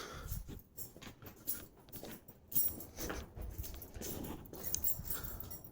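Irregular light clicks and rustling.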